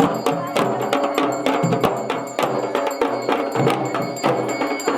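Dhol and damau drumming, struck several times a second, with steady pitched tones running underneath.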